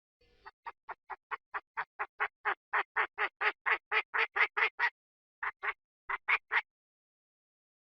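Chinese francolin calling: a run of about twenty harsh, evenly spaced notes that grows louder, then after a short pause a few more notes.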